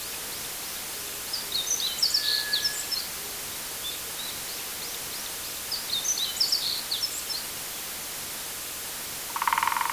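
Forest ambience: small birds chirping in two quick, high flurries over a steady background hiss, with a short buzzy burst at the very end.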